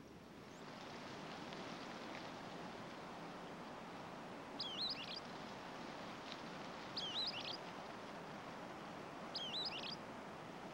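A songbird gives three short, quick chirping calls, about two and a half seconds apart, over a steady outdoor hiss.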